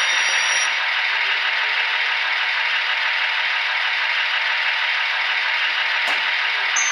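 Model train running along the track: a steady rattling hiss of small wheels on the rails, with one sharp click about six seconds in.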